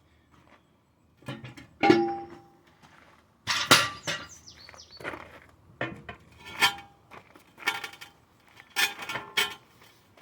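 Steel tire irons clanking and ringing against a truck tire's aluminum wheel while the tire bead is pried off by hand. It is an irregular string of sharp metal strikes, each with a brief ring, the loudest about two and four seconds in.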